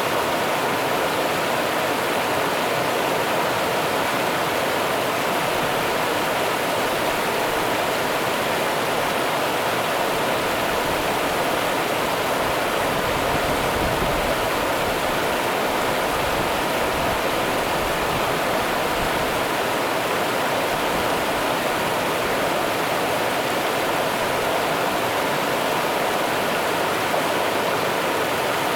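Rio Grande river water rushing steadily over rocks, a constant even splash with no breaks.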